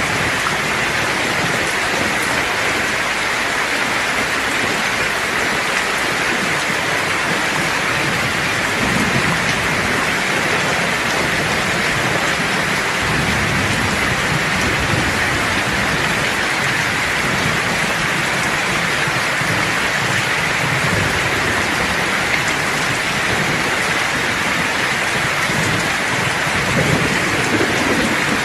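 Steady heavy rain hissing, with low rolls of thunder rumbling under it several times.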